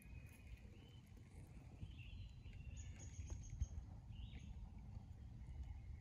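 Faint songbird calls: a few short chirps and one thin, high whistle about three seconds in, over a low, steady background rumble.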